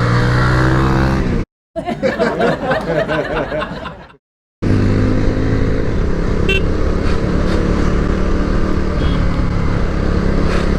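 Motorcycle engine, wind and traffic noise heard from a moving motorcycle, running steadily after an abrupt cut to silence about four seconds in.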